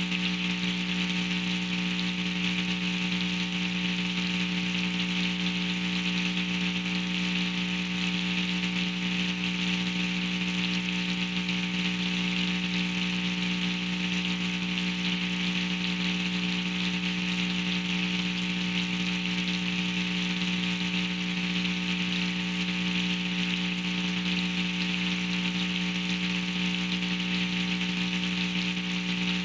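Steady rain hissing over the nest site, under a constant buzzing hum with several fixed pitches; no change through the stretch.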